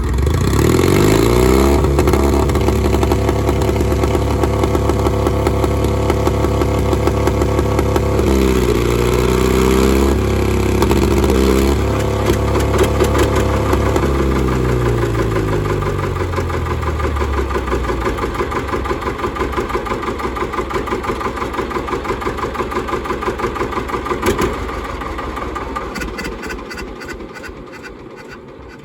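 John Deere R two-cylinder diesel tractor engine running, revved up at the start, dipping and picking up again a few times, then dropping to a slower putt that fades away near the end.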